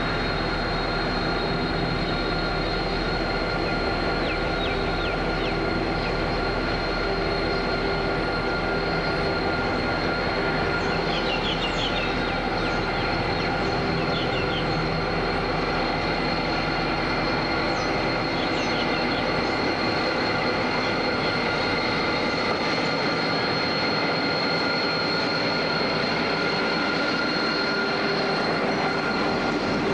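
Diesel-hauled coal train passing: the locomotive's engine runs steadily while loaded coal hopper wagons roll by, with several brief wheel squeals.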